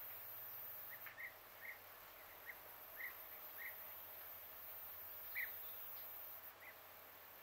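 A small bird chirping: short single chirps, spaced irregularly a few times over several seconds, over a faint steady outdoor hiss.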